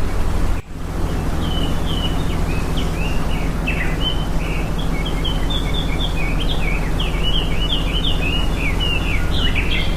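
Birds chirping in a busy chorus of short, rapid, mostly falling calls, starting about a second and a half in, over a steady low rumble of background noise.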